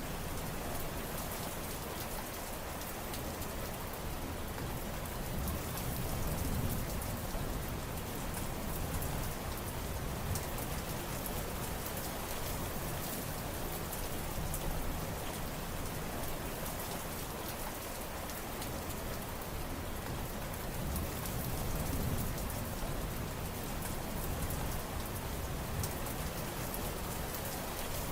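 Steady heavy rain pattering on surfaces, with a dense patter of individual drops and a low rumbling wash that gently swells and eases every few seconds.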